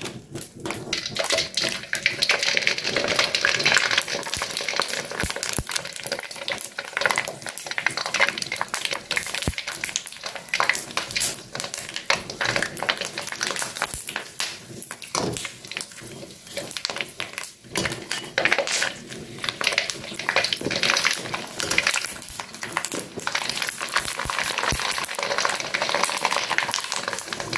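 Dried tofu skin deep-frying in a wok of hot oil: a steady, dense crackling sizzle that goes on without a break.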